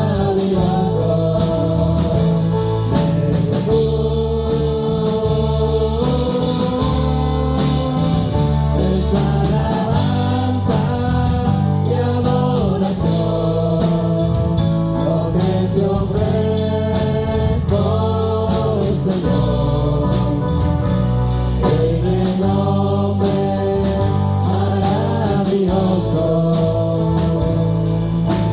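Live church worship music: singers carry a slow, flowing melody over a band with a steady bass line and constant cymbal ticks.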